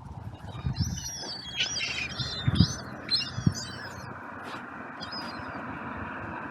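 A brief flurry of calls from several birds, the gulls and crows gathered for the food, packed together over about two seconds, with a few dull low thumps among them. After the calls stop, only a steady background rush remains.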